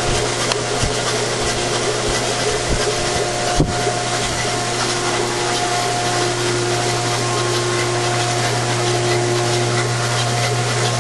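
Ford 428 FE V8 from a Shelby GT500 running at a constant speed on a Simtester engine test stand: a steady low hum with a constant higher whine, and a few clicks in the first few seconds.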